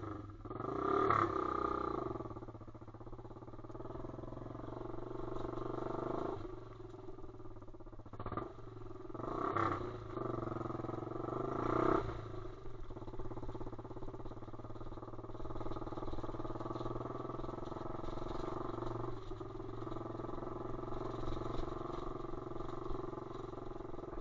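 Pit bike's single-cylinder engine running while ridden, revving up in several swells in the first half and then holding a steadier drone. The rider says the engine is starting to boil, so it is running hot.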